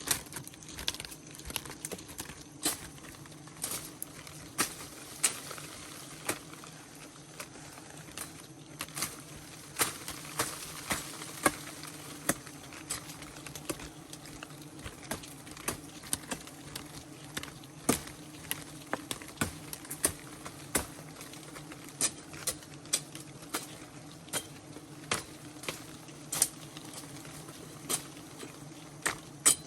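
Swarm of wild honeybees buzzing as a steady low hum, with irregular sharp ticks about once or twice a second throughout.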